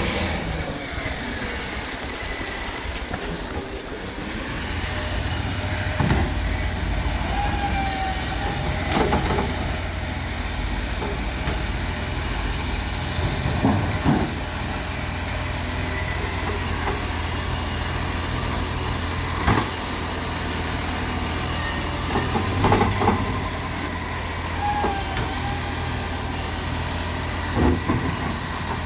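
A garbage truck's diesel engine runs steadily, growing louder about four seconds in. Sharp clanks and knocks come every few seconds, with a few brief whines in between.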